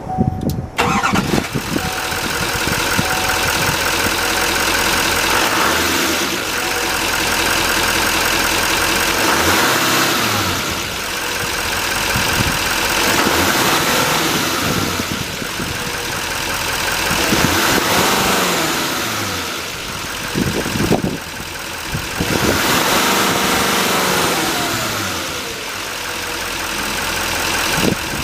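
2015 Chevrolet 3500 dually pickup's engine cranking and catching within the first second, then idling and being revved up and let back down three times.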